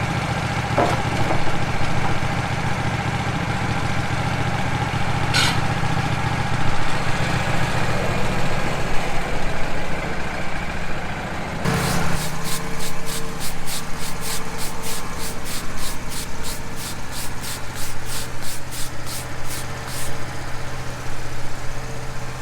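Wood-Mizer portable sawmill's engine idling steadily. A little before halfway its note changes, and a regular ticking of about three clicks a second runs for about eight seconds.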